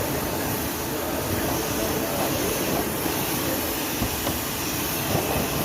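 Machine orbital sander running steadily on a car's epoxy-primed side panel, a continuous hissing whir with no breaks.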